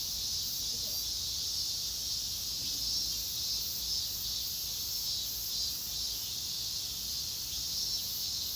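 Steady, high-pitched chorus of insects chirring, with a slight pulsing.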